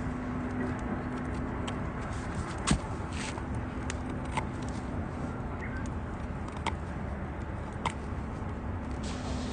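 Wood fire burning with a steady rush, broken by a few sharp pops of crackling wood, the loudest a little under three seconds in.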